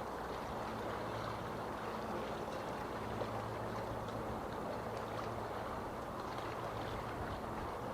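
Small harbour waves lapping and splashing in a steady wash of water, with a faint low steady hum underneath.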